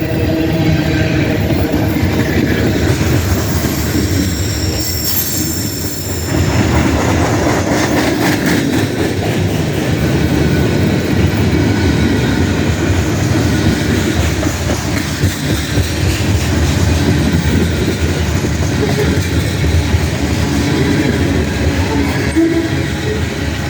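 Freight cars of a CSX manifest train rolling steadily past. The wheels click over rail joints, and there is a brief high wheel squeal about five seconds in.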